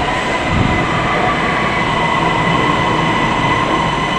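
Driverless MRT metro train pulling into the platform and slowing to stop. Its wheels and running gear make a steady rumble, with a steady high whine over it.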